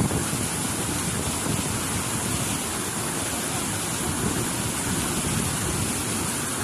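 Wind buffeting the microphone over a steady rushing roar, with no distinct events.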